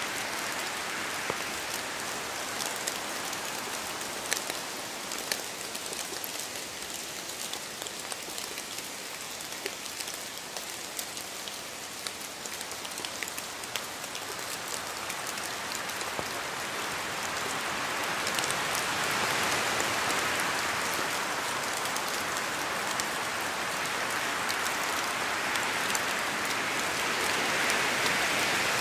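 Steady rain falling on a surface, a constant patter dotted with individual drop ticks, growing heavier and louder about two-thirds of the way through.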